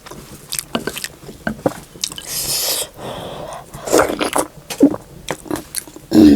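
Close-miked eating of soup momo, dumplings in hot broth: wet chewing and biting noises with small mouth clicks, a brief airy sound a little past two seconds in, and a short voiced sound near the end.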